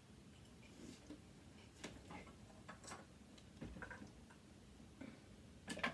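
Near silence broken by a few faint, scattered clicks and taps of metal parts and a tool being handled on an old sewing machine, with a slightly louder pair of clicks near the end.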